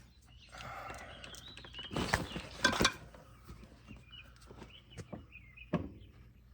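Metal tire levers prying a tire bead over the rim: high rubber squeaks and rustling, with a cluster of sharp metal clicks and knocks about two to three seconds in and single clicks near the end.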